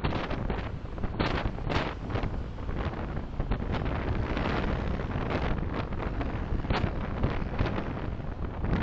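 A car driving, heard through its dashcam microphone: a steady low road and wind rumble with many brief knocks and bumps.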